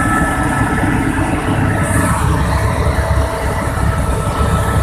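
Helicopter running: a steady heavy rumble with a thin high whine held on top.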